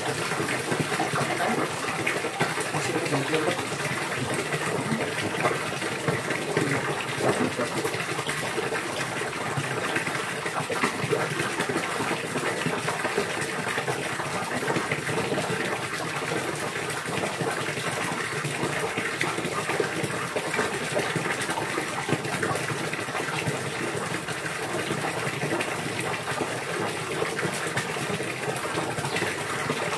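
Continuous gushing, splashing water at a steady level.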